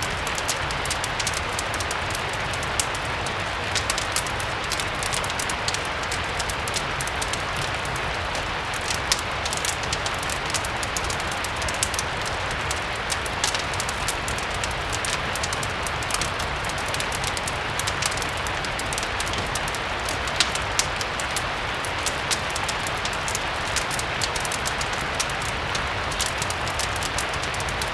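Steady rain blended with a crackling fireplace fire: a constant even hiss of rain, dotted with frequent short crackles and pops.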